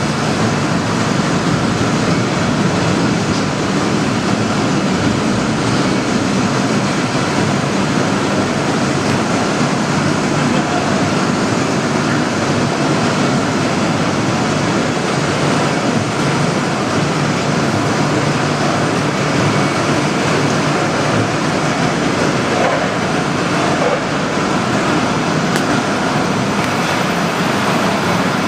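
Steady, loud mechanical noise: a continuous rumble and hiss with no breaks or distinct strikes.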